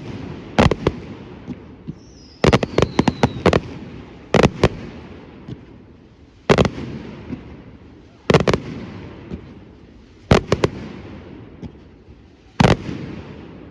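Fireworks display: aerial shells bursting with sharp bangs about every two seconds, with a quick cluster of several bangs a couple of seconds in, each bang trailing off in an echo that fades away. A falling whistle sounds just before that cluster.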